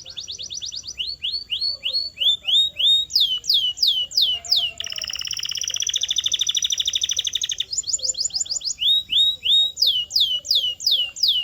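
Canary singing: a fast trill, then runs of quick down-slurred notes. About five seconds in comes a long rapid rolling trill lasting nearly three seconds, and then more down-slurred notes.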